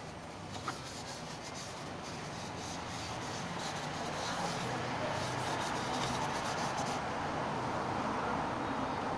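Steady rubbing, growing louder from about three seconds in, with a faint low hum underneath and one small click near the start.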